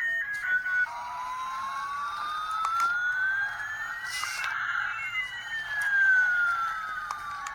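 An electronic siren-like sound with slow pitch glides: one tone rises steadily over several seconds while another falls, the two crossing about halfway through, with a short hiss near the middle.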